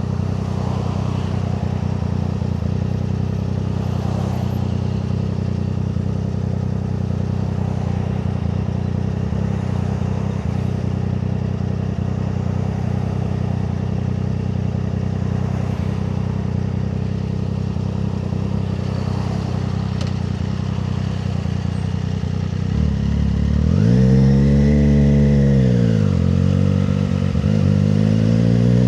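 Triumph Street Triple 765 RS's three-cylinder engine idling steadily. About two-thirds of the way in, the revs rise, hold briefly and drop back, then climb again near the end.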